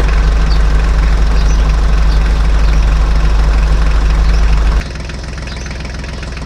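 Engine idling steadily with a heavy low hum; it drops noticeably in level about five seconds in.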